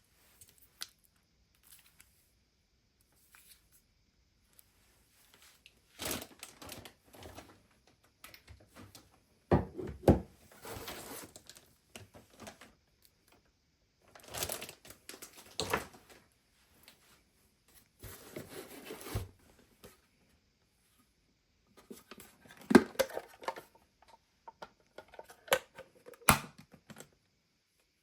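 Intermittent handling noise: bursts of rustling and crinkling, like plastic packaging being handled, with scattered clicks and knocks and short pauses between.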